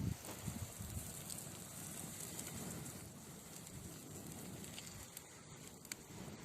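Wood fire burning in a fireplace: a steady hiss with scattered sharp crackles and pops from the burning logs.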